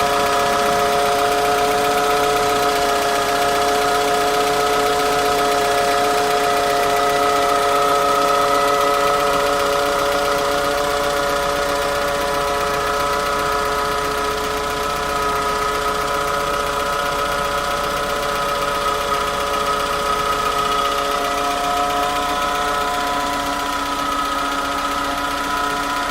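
Peugeot 206 1.1 petrol's power steering pump giving a steady whine over the idling engine, an abnormal noise from the pump.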